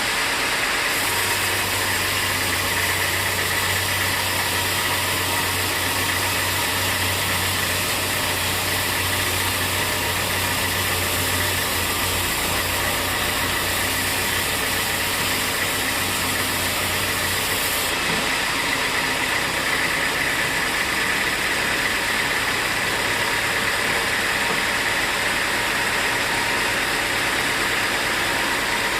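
Sawmill machinery running steadily: a loud, even noise with an engine-like low hum that comes in about a second in and drops out after about 18 seconds.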